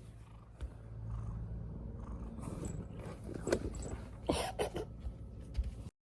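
A domestic cat purring steadily, with several short, louder vocal sounds in the second half.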